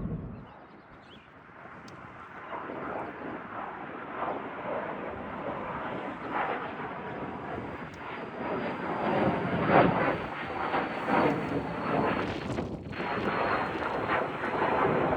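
Airplane engines during a takeoff, the noise building in loudness, with a thin high whine that slowly falls in pitch.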